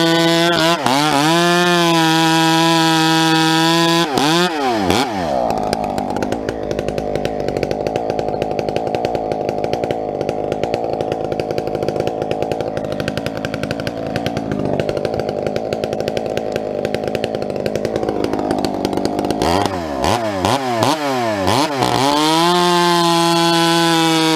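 Two-stroke gas chainsaw at full throttle, then bucking a log for about fifteen seconds, its engine pulling down to a lower, rougher note under the cut load. It then revs back up with a few wavering blips and runs free at high revs again near the end.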